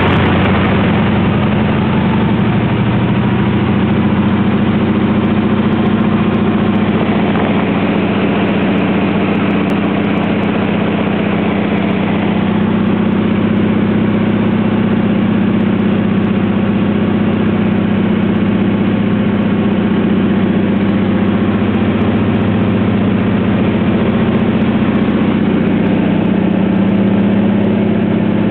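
The engine of a de Havilland Beaver floatplane running steadily in a deep, even drone, easing slightly about twelve seconds in.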